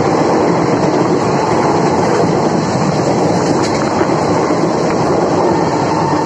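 Steady loud rumble and rush of a passenger train running at speed, heard from an open coach doorway: wheels on the rails and air noise.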